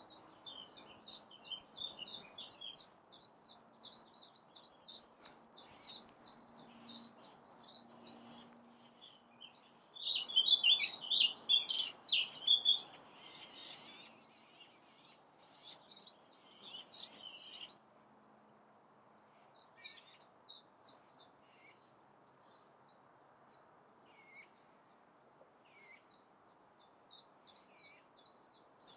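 Wild birds singing outdoors: a rapid stream of short, high chirps with a louder stretch of song about ten seconds in, then more scattered calls for the rest of the time.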